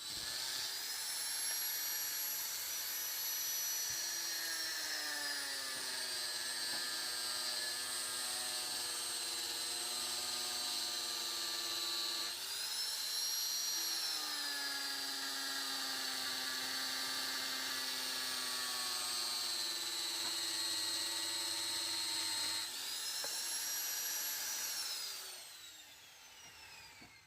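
Electric power tool motor, such as a grinder used in shaping a blade, spinning up to a high whine. Its pitch sags about halfway through, as under load, then picks back up, and it winds down with a falling whine near the end.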